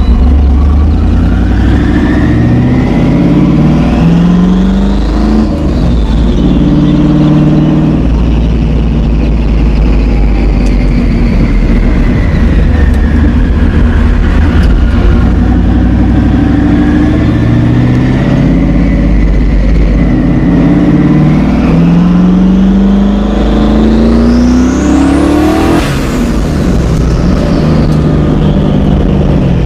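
Twin-turbocharged LS1 V8 in a Pontiac Trans Am pulling hard twice, at the start and again near the end. Each time the engine note rises, a high turbo whine climbs alongside it, and between pulls the whine slowly winds down.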